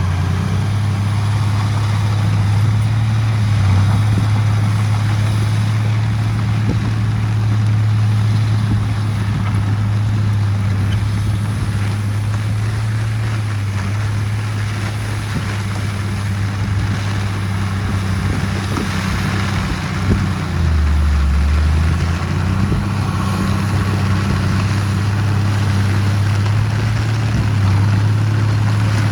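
Heavy diesel engine of earthmoving machinery running steadily, its pitch dipping briefly about twenty seconds in before it settles back.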